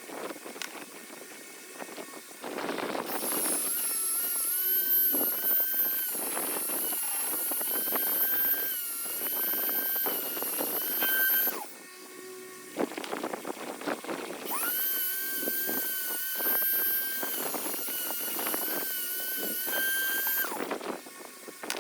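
Small high-speed rotary power tool running in two long runs with a short stop about halfway through, giving a high whine whose pitch wavers and dips.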